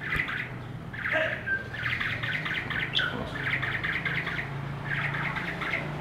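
Small birds chirping in quick bursts of high, rapid notes, about one burst a second, with a steady low hum underneath.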